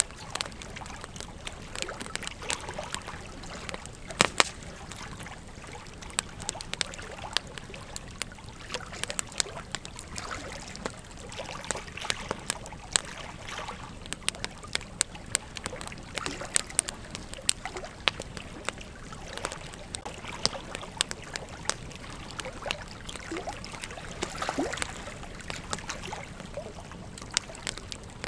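Campfire crackling: a steady hiss of burning wood with frequent sharp, irregular pops and snaps, two of the loudest about four seconds in.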